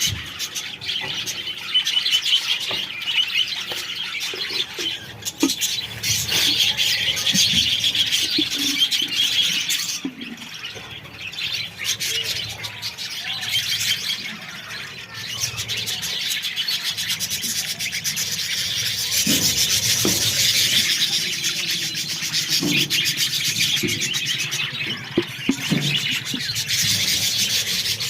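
A colony of budgerigars chattering and chirping continuously, many birds calling over one another, easing briefly about a third of the way in.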